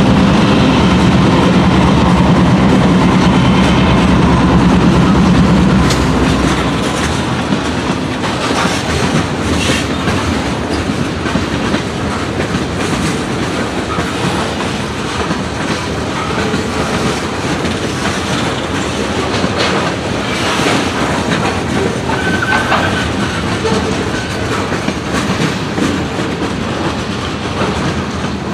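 Freight train passing close by. For about the first six seconds a diesel locomotive's engine runs with a steady hum, then the freight cars roll past with a clickety-clack of wheels over rail joints and scattered sharp clanks.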